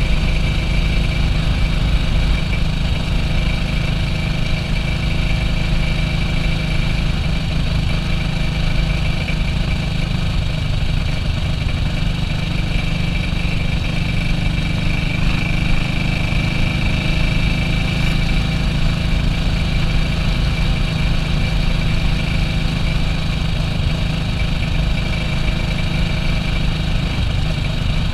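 A 1967 BSA B40 WD's single-cylinder four-stroke engine running steadily, at an even note throughout.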